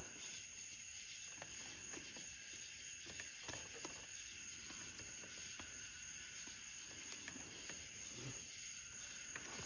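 Faint, scattered clicks of a screwdriver tightening a screw on an ATV carburetor, over a steady high hiss.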